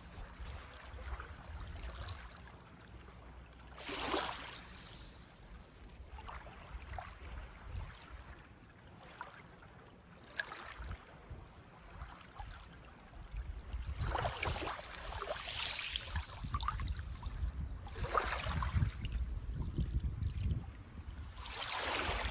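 Small waves breaking and washing up a sandy beach: a surge of surf every few seconds, over a low steady rumble that grows louder in the second half.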